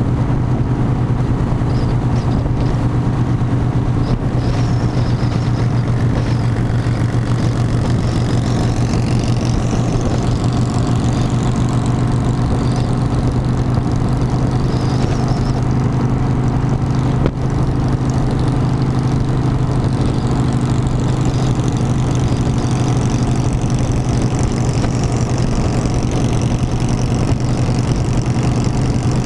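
Harley-Davidson motorcycle engine running steadily with a constant low hum, its pitch unchanging throughout.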